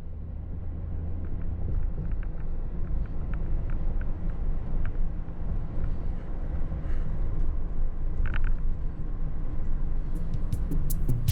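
Steady low rumble of city road traffic, with a few faint short high ticks over it. Sharp percussive clicks come in near the end.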